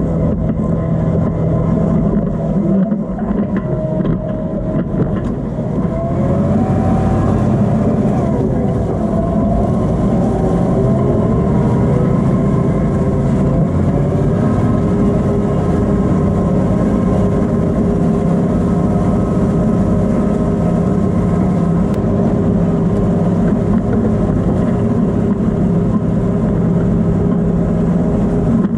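Tractor engine running steadily under load, with a rise in engine speed about six to nine seconds in before it settles again.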